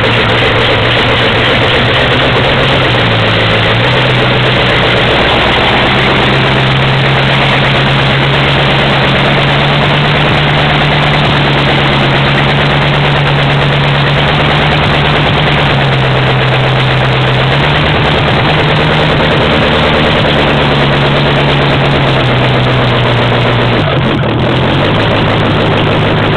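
Ford flathead V8 running at a fast idle on choke just after a cold start, its engine speed stepping up and down a few times.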